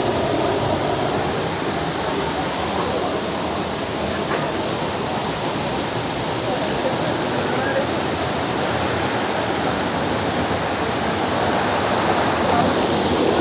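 Steady rush of a small waterfall pouring over rocks.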